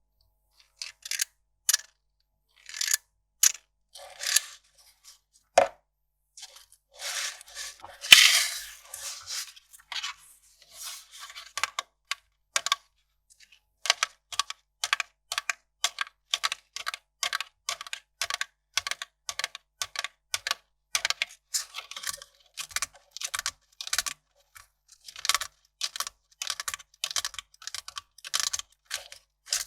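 Kraft paper being worked by hand: scattered crisp crackles, a longer, louder tearing or crumpling rustle about eight seconds in, then a long run of short, evenly spaced crisp strokes, about two or three a second.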